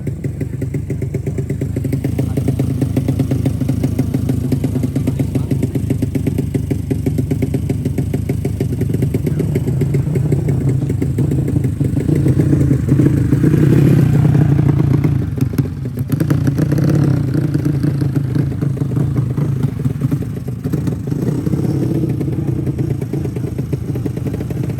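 Drag-racing motorcycle engines running with a fast, even firing pulse. The sound swells to its loudest a little past halfway, then drops back abruptly and runs on.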